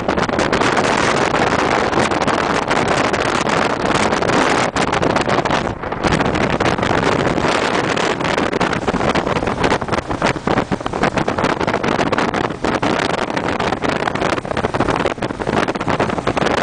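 Motorcycle riding at speed: steady engine and road noise, with wind buffeting the microphone.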